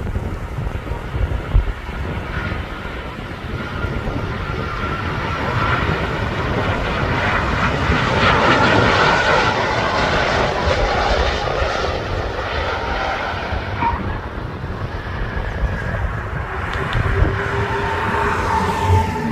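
Jet airliner engines running, swelling to their loudest about eight to ten seconds in, with a steady whine over a heavy low rumble.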